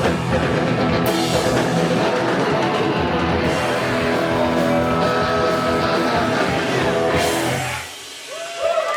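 Rock band playing live on electric guitars and drums. The song stops about three-quarters of the way through, and shouts and whoops from the crowd start just before the end.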